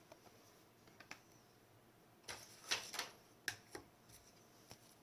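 Trading cards being handled and sorted by hand: a scattering of light clicks and flicks of card against card, bunched together in the middle.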